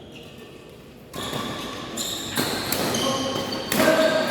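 Badminton play in an echoing sports hall: after a quiet first second, sharp racket strikes on the shuttlecock and squeaks of court shoes start about a second in and come several times.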